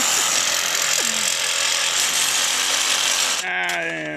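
A power tool running with a steady, harsh rattle for about three and a half seconds, then stopping.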